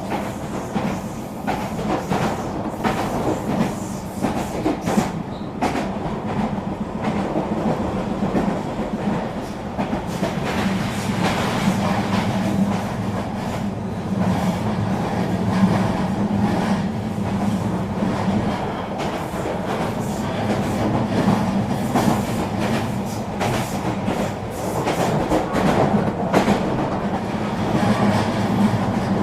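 Eurobahn RE3 regional train running steadily along the line: a continuous rumble and hum from the running gear, with frequent irregular clicks and knocks of the wheels over the track.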